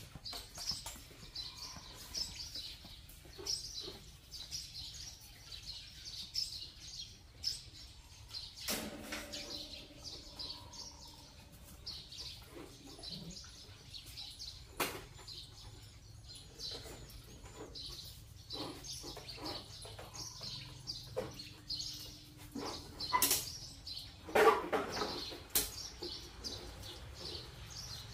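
Small birds chirping again and again in the background, with scattered clicks and knocks and a louder clatter near the end.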